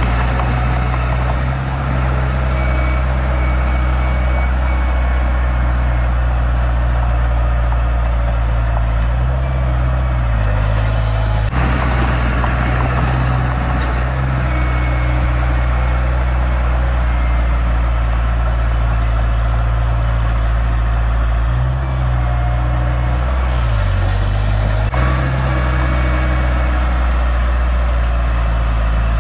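Heavy diesel earthmoving machinery running steadily, with the engine note shifting in pitch twice.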